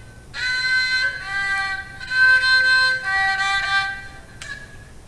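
Haegeum, the Korean two-string vertical fiddle, bowed through a short phrase of several held notes at changing pitches. It stops about four and a half seconds in, with a light click.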